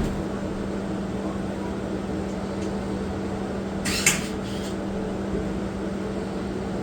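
Steady mechanical hum with a constant low tone over an even hiss, a sharp click at the start and a short burst of hiss about four seconds in.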